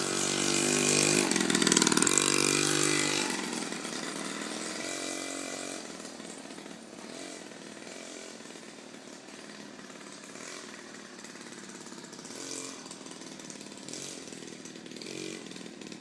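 Small dirt bike engine revving loudly close by, then fading into a distant, buzzing drone as the bike pulls away, with brief rises in revs near the end.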